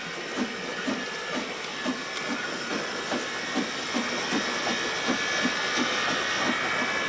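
Train sound: a steady hiss with a rhythmic clickety-clack of wheels, about two clacks a second.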